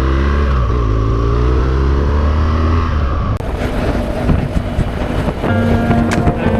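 Motorcycle engine running, its pitch rising and then holding steady. A little over three seconds in, the sound cuts abruptly to clattery noise, and music with held notes comes in near the end.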